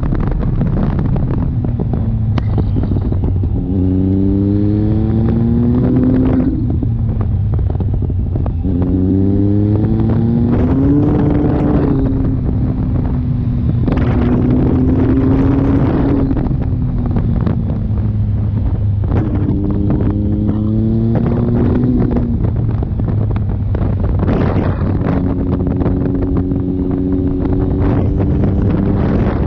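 Triumph Speed Triple's three-cylinder engine with a full Akrapovič exhaust, heard from on board under heavy wind noise. The engine note climbs in pitch several times and drops back, with steadier stretches of cruising between.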